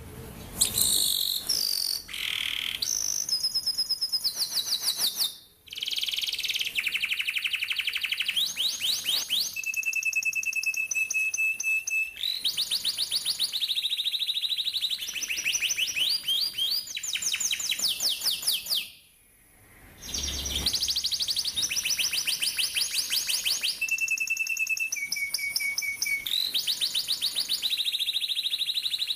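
Domestic canary singing a long song of fast rolls and trills, the high notes repeated rapidly in runs of different pitch, with two short pauses about five and nineteen seconds in.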